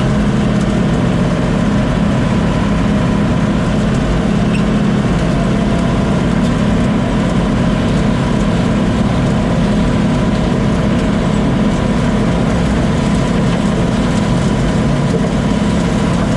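Combine harvester running steadily while shelling corn: an even mechanical drone with a steady whine above it.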